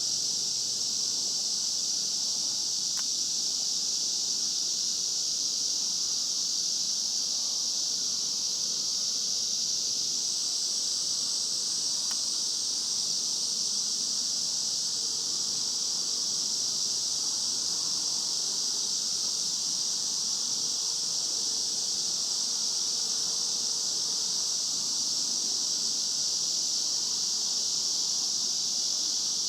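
Chorus of cicadas singing loudly around, a steady, unbroken high-pitched drone, which the uploader takes to be bear cicadas (kumazemi).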